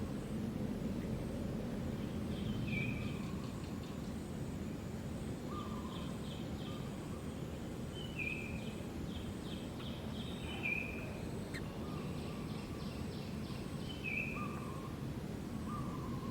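Steady low outdoor background noise with a short animal call repeating every two to three seconds, each a brief high note with a quick rattling trill.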